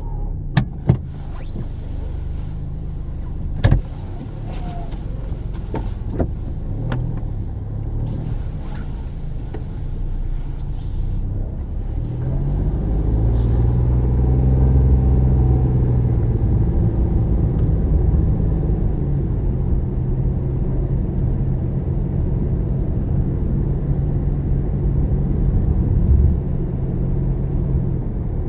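Car heard from inside the cabin while driving. A few sharp clicks come in the first few seconds. About twelve seconds in, the engine note rises as the car accelerates, then settles into a steady hum with road rumble.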